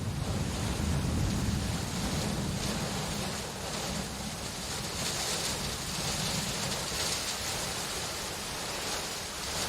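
Steady heavy rain, an even hiss, with a low rumble of distant thunder that is strongest in the first few seconds and then fades.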